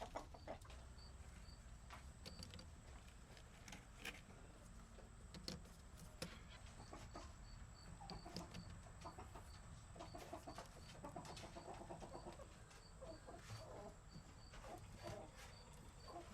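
Chickens clucking faintly, with scattered sharp clicks.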